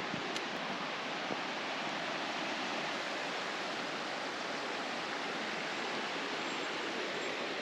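Steady rushing of fast-flowing water from a mountain stream or waterfall.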